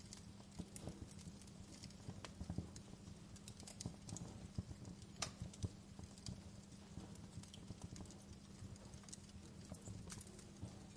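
Wood fire burning in a fireplace, crackling with irregular small pops and snaps over a low steady hum.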